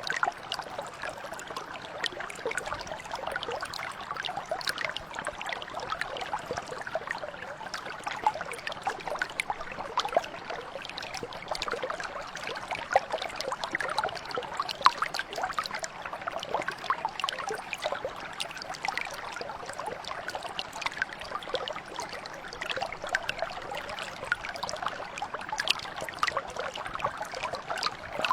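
A brook flowing steadily, a continuous trickling and babbling with many small splashes.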